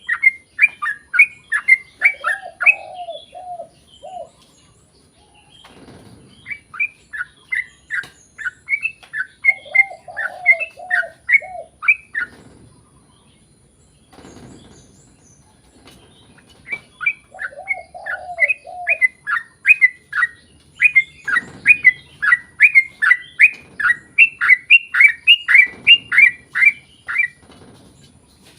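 Yellow-vented bulbul (trucukan) singing long runs of quick, bright repeated notes, about four a second, in three bursts with pauses between. Each burst has a short group of lower, curling notes.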